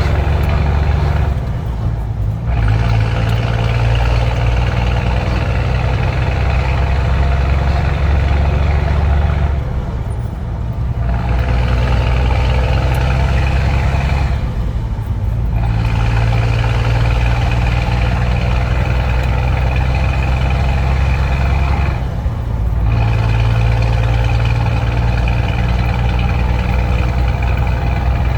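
Scania truck engine running steadily under way, easing off briefly four times, about two, ten, fifteen and twenty-two seconds in, with the engine note changing pitch after each.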